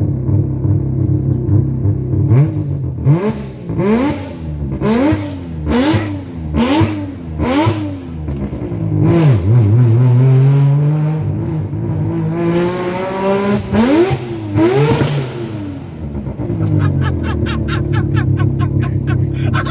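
Peripheral-ported Mazda 20B three-rotor rotary engine in an RX-8 idling choppily, then blipped about seven times in quick succession with sharp cracks at the peaks. It then revs up in one long climb, held high for several seconds, before dropping back to its lumpy idle.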